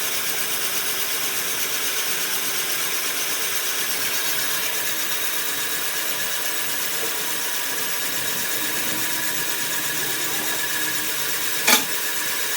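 A machine running steadily with an even whir and hiss, and one sharp knock near the end.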